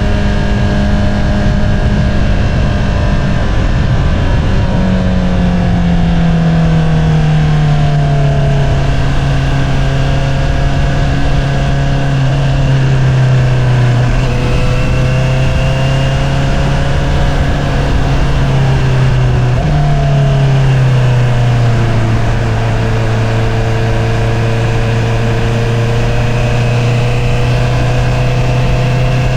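2022 Honda CBR650R's inline-four engine through an Akrapovič single-outlet exhaust, running at a steady cruise and easing off so its note slides lower several times. About twenty seconds in the pitch jumps up suddenly and then falls back, over a steady rush of wind and road noise.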